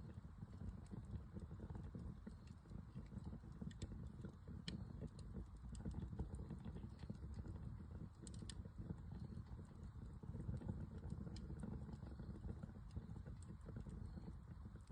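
Wood fire burning: scattered small crackles and pops over a steady low rumble.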